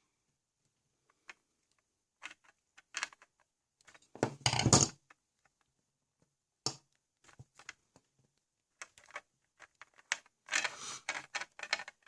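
Irregular clicks and short clatters of hard plastic LEGO parts being handled, with a louder rattling clatter about four seconds in and another run of clatters near the end.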